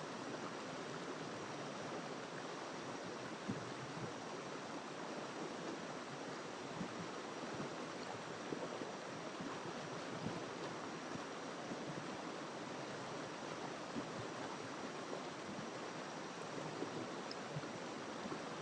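A small river flowing over rocks: a steady rushing of water, with small splashes and gurgles rising out of it now and then.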